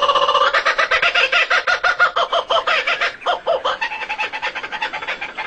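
Rapid, pulsing bird calls, many a second, loud and fading slightly toward the end.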